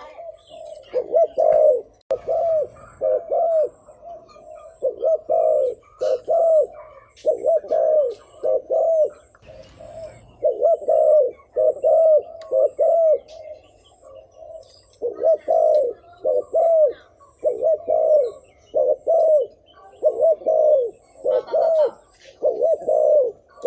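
Spotted dove cooing over and over: short, low, arched coos in quick runs of two or three, with brief pauses between runs. It is the calling coo of a decoy dove, used to lure wild doves.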